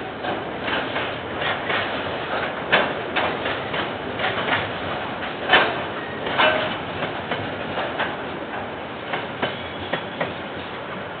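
A train rolling past on the rails, a steady rumble broken by irregular clanks and clicks from the wheels and wagons, with a brief metallic ring about two-thirds of the way through. Heard through a security camera's microphone, dull and without treble.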